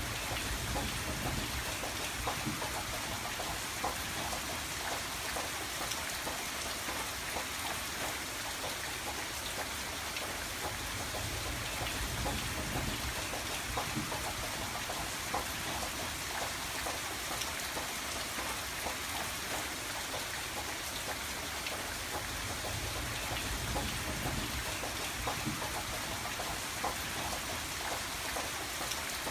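Steady rain falling on a window pane, a continuous hiss dotted with many small drop taps. A soft low rumble swells and fades every few seconds underneath.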